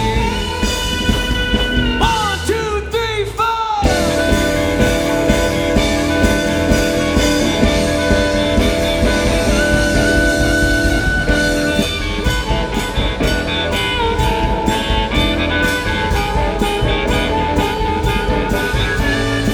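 Live band music: held notes with a few downward slides about two to four seconds in, then a steady beat from about the middle.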